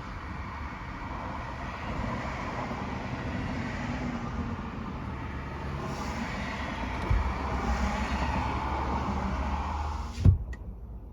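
Truck engine and road noise, steady, growing somewhat heavier in the second half, with a single sharp thump near the end, after which the sound drops away abruptly.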